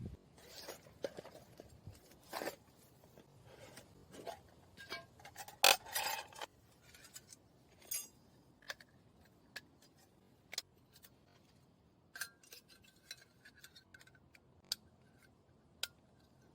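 Small objects handled at close range: irregular clicks, taps and short scrapes, busy through the first six seconds with the loudest near the middle, then single ticks about once a second.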